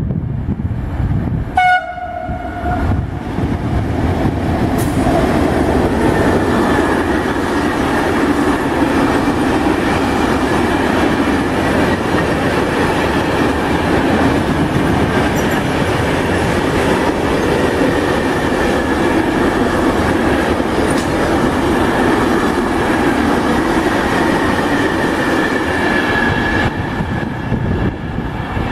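A freight train of covered wagons passing close by at speed. There is a short train-horn blast about two seconds in, then the steady rumble and clatter of wheels on rail, easing off near the end as the train draws away.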